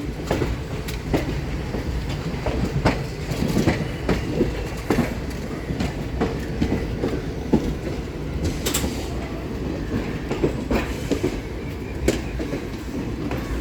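Train wheels running over the rail joints: a steady low rumble with repeated clacks at an uneven beat of roughly one or two a second.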